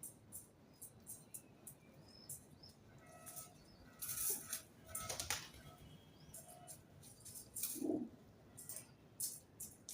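Birds on a rooftop flapping their wings, with two louder flurries of wingbeats about four and five seconds in. Many small ticks and a few faint chirps run between them.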